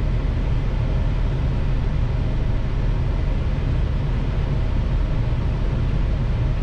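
Steady low rumble and rush of airflow and engine noise inside an Airbus A321 cockpit on final approach.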